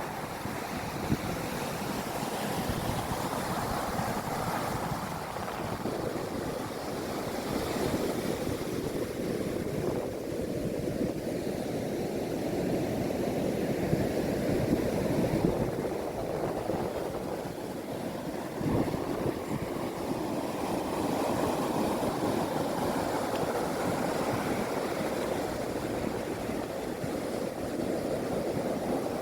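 Sea waves breaking and washing ashore: a continuous rushing surf that swells and eases every few seconds.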